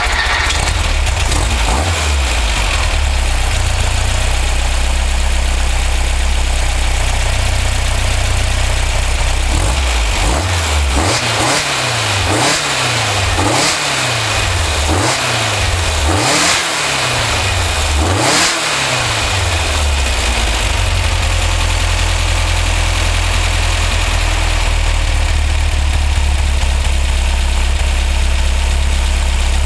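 Newly built 1985cc air-cooled VW flat-four engine running: it idles steadily, is revved up and back down about six times in quick succession through the middle, then settles back to a steady idle.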